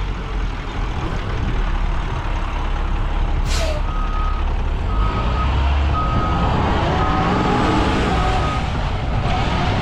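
A bus engine running with a deep rumble, a short hiss about three and a half seconds in, then a reversing alarm beeping five times, about once a second.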